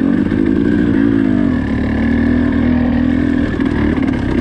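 Dirt bike engine running steadily, with a brief waver in pitch about a second in.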